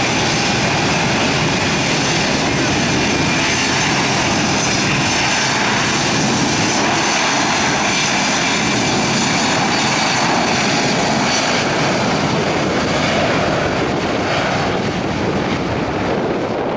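Airplane engines running loud and steady, with a high whine over the roar, easing off slightly near the end.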